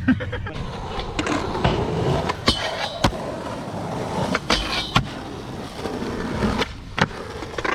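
Skateboard wheels rolling on concrete, broken by several sharp clacks of the board's deck and tail hitting the ground.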